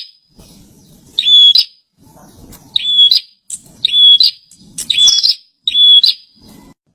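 A prenjak (prinia) singing: five loud, short whistled phrases, each a steady note ending in a buzzy flourish, repeated about once a second.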